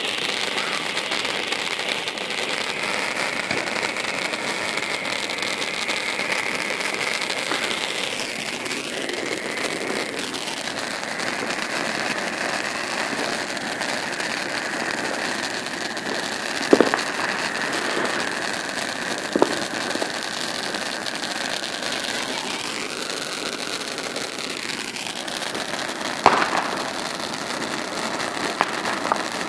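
Roman candle firework burning with a steady hiss of spraying sparks, broken by a few sharp pops in the second half as it fires its shots.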